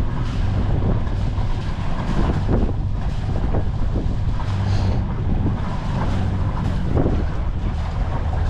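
Wind buffeting the microphone aboard a sailing yacht under way, over a steady low drone.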